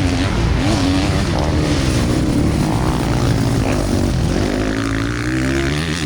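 Dirt bikes running on a motocross track, engine notes rising and falling with the throttle; one engine climbs steadily in pitch in the second half.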